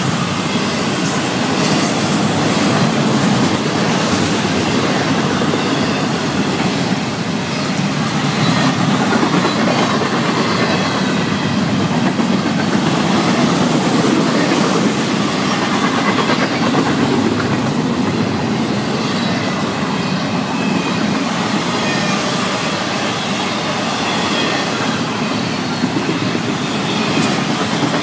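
Loud, steady running noise of a Florida East Coast Railway intermodal freight train's cars passing close by: double-stack container cars and trailer flatcars rolling on steel wheels over the rails.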